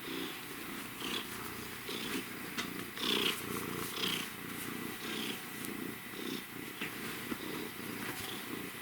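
Pet cat purring close up: a steady, rhythmic low rumble that swells and eases with each breath in and out, the sound of a content cat.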